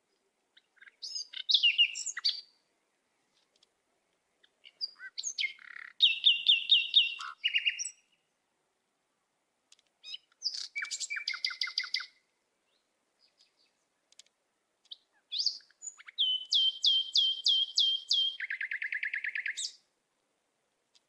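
A songbird singing in four separate phrases with pauses between them. Each phrase is a quick run of high, repeated whistled notes, and the last and longest phrase drops to a lower trill near its end.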